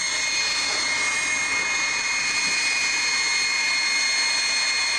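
Steady machine noise: an even rush with several constant high whining tones.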